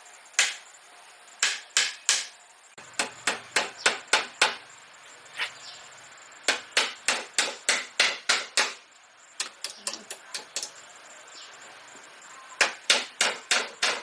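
Hammer striking again and again in quick runs of about three to four sharp blows a second, with short pauses between the runs and lighter taps about halfway through.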